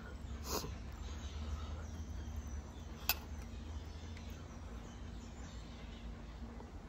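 Quiet chewing of a mouthful of rice and chicken over a steady low hum, with a short smacking sound about half a second in and a single sharp click about three seconds in.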